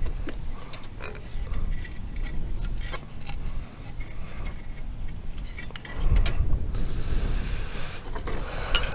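Scattered metal clicks and clinks of a wrench on the injector line nuts as they are tightened back up after bleeding the fuel, over a low rumble of wind on the microphone.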